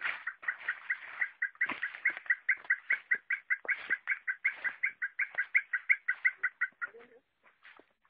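A bird calling in a fast, even run of short two-note calls, about six a second, that stops about seven seconds in.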